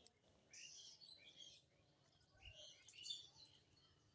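Near silence, with a few faint bird chirps in the background, in two short clusters.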